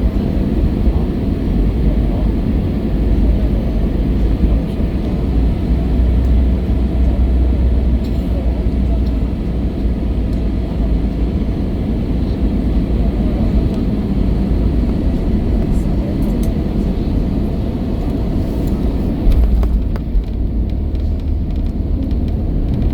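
Steady low rumble of an Airbus A321's cabin, from its engines, airflow and running gear. The higher hiss thins out about nineteen seconds in.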